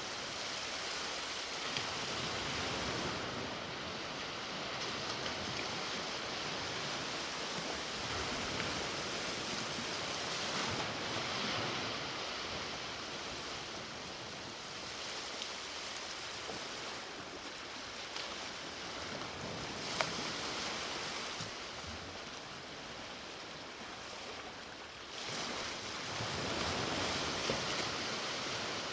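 Ocean waves breaking and washing on the shore, a steady surf that swells and eases, with one swell rising about 25 seconds in.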